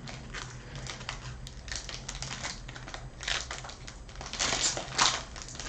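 Trading cards being handled and flipped through by hand: a series of short rustling and crinkling sounds of card stock sliding against card stock, a little louder about three seconds in and again near the end.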